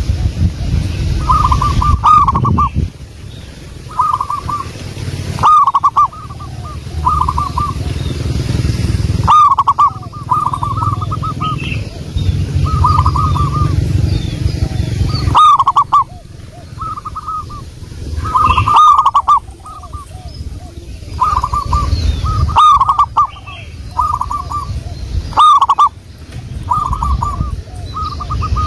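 Zebra doves (perkutut) cooing: phrase after phrase of quick, staccato notes every second or two, several birds overlapping. A low rumble comes and goes underneath, and faint higher chirps of small birds sound now and then.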